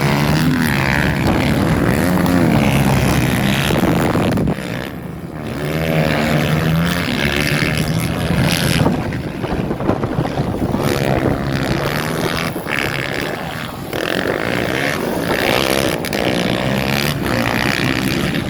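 Motocross bikes' engines revving up and down as the riders race, their pitch rising and falling, with wind noise on the microphone.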